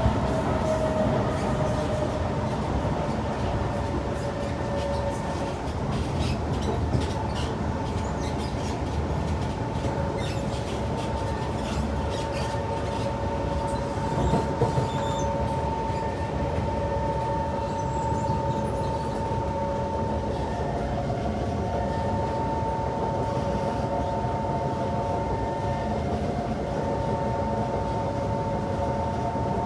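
Kawasaki C151 MRT train running at speed, heard from inside the car: a steady rumble of wheels on rail, with several held high tones over it and a few faint clicks in the middle.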